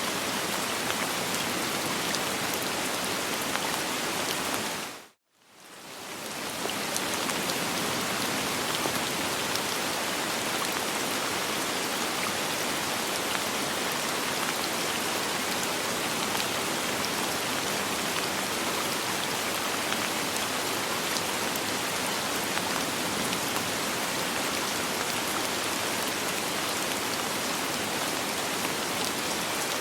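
Steady rain with no thunder, an even hiss of many drops. About five seconds in it briefly drops out to silence and fades back up within a second or two.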